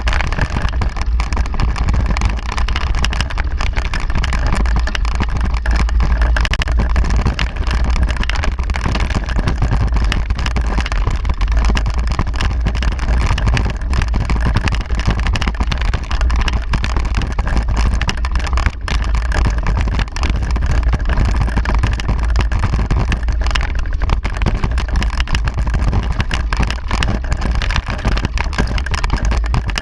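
Wind buffeting the microphone of a camera carried on a moving mountain bike, mixed with the bike's rolling noise: a loud, steady low rumble under a broad rushing hiss.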